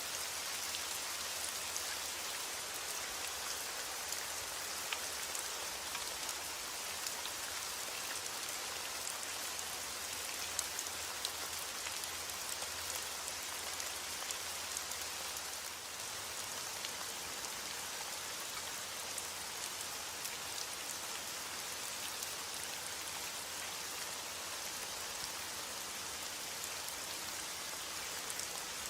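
Steady heavy rain: a dense, even hiss of falling rain with countless small drop ticks scattered through it.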